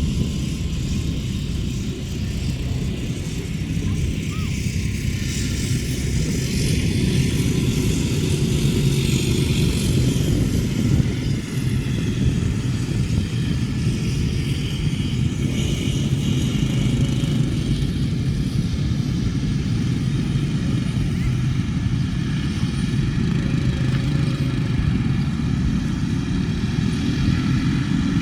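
Motorcycle engines running steadily as the bikes ride along a dirt track.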